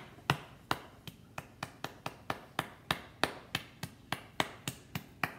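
Quick, regular tapping: sharp taps about three to four a second that stop just before the end.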